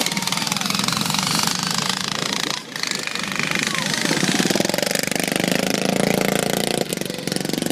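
Small engines of racing riding lawn mowers running on the track, a fast, even pulsing exhaust chatter.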